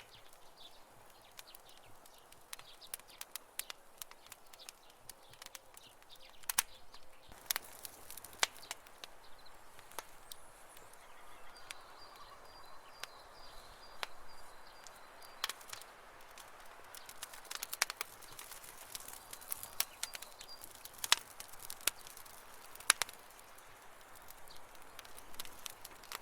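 Wood fire crackling and popping, with irregular sharp pops over a soft hiss; a few louder snaps stand out. A faint high-pitched chirping call sounds in the background twice in the middle.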